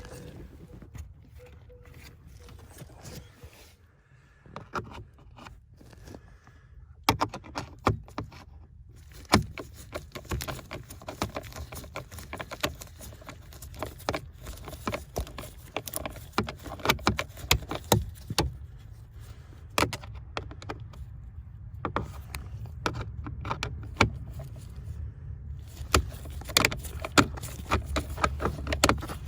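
Hand reassembly under a pickup's dashboard: irregular clicks, knocks and light rattles of screws, hand tools and plastic blower-housing parts being fitted, over a low steady rumble. The clicks grow busier after the first several seconds.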